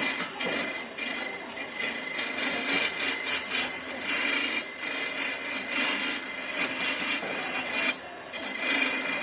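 Wood being abraded by hand: a continuous scratchy rubbing in uneven strokes, with a short pause near the end.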